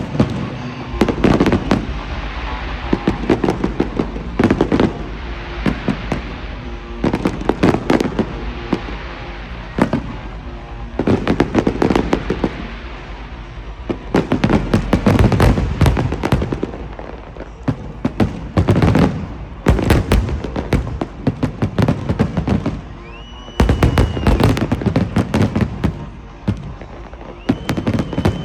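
Fireworks display: clusters of booming shell bursts and crackling salvos every second or two, with two short high whistles near the end.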